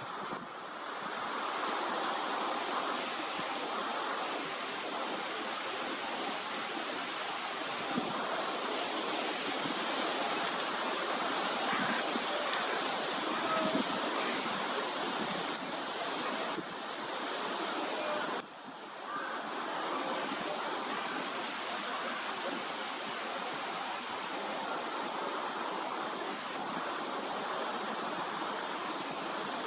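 A steady, even rushing noise, with brief dips in level about 17 and 18 seconds in.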